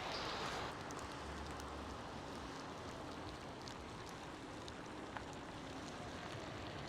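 Snow falling in a snowstorm, pattering lightly: a steady hiss with scattered faint ticks and one sharper click about five seconds in.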